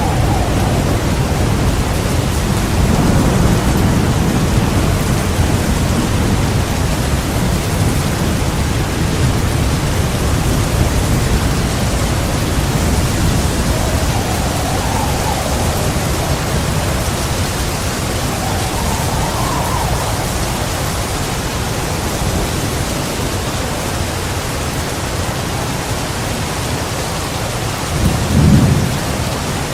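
Heavy rain pouring steadily, with thunder rumbling low underneath and a short louder thunder burst near the end.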